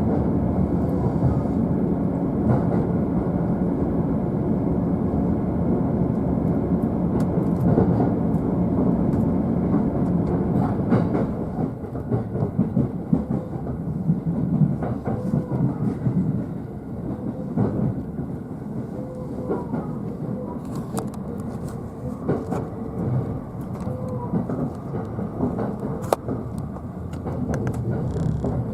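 JR East E531-series electric train running, heard from the upper deck of a bilevel car: a steady low rumble of wheels on rail. About 11 seconds in it turns quieter and more uneven as the train slows, with scattered clicks from rail joints and points and a few brief squeaks.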